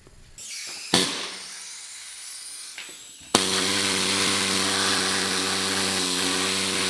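Pneumatic needle gun (needle scaler) starting suddenly about halfway through and running steadily with a fast, even hammering buzz, its needles working on thick, tarry underseal. Before it, a single click and a soft hiss.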